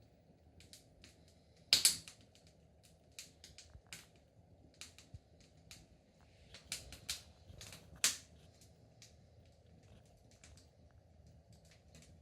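Wood fire in a fireplace crackling, with irregular sharp pops and snaps; two louder pops stand out, one near the start and one about two-thirds through.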